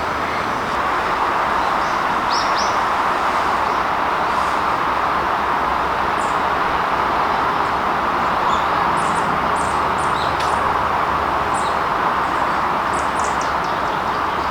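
Small birds chirping in short, scattered calls over a loud, steady rushing noise.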